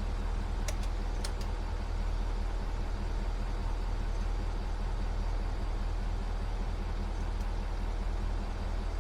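Pickup truck engine idling steadily, with a few short clicks about a second in and one more near the end.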